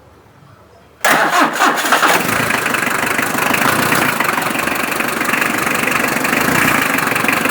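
HM Contessa's Isuzu 2000 cc diesel engine starting about a second in: a brief crank, then it catches and settles into a steady idle.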